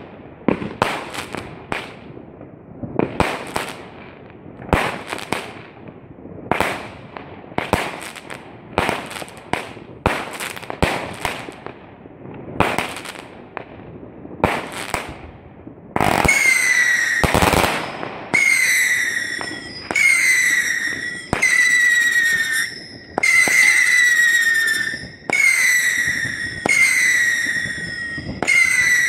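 Fireworks going off: a run of bangs about one a second, each with a trailing crackle and echo. About halfway through it turns to shrill whistles, each about a second and a half long and falling slightly, coming one after another, with one loud bang among the first of them.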